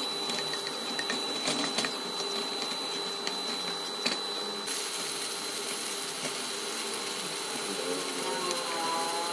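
Diced onions sizzling in oil in a non-stick pot, stirred with a spatula, with a few sharp taps and scrapes of the spatula against the pan. A thin steady high tone runs underneath.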